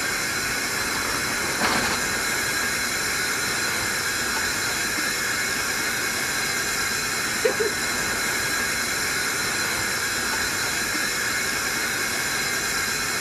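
Steady rushing noise of a locomotive running at speed down the track, heard from its front end with wind on the microphone. A short knock sounds about a second and a half in, and another brief one about halfway through.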